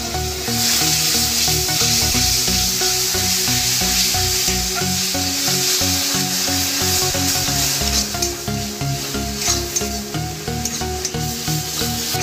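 Masala paste sizzling with a steady hiss in a metal kadai as a metal spatula stirs it. From about eight seconds in, the spatula scrapes against the pan now and then. A little water has just gone into the fried masala.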